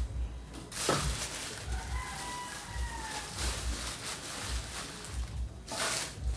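A rooster crows once about two seconds in, a long call of a second and a half with a slight fall in pitch. Bursts of rustling come at the start and the end.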